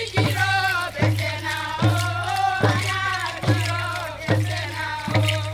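Oro butterfly dance song from Papua New Guinea: a group of voices singing over a steady drum beat struck a little faster than once a second.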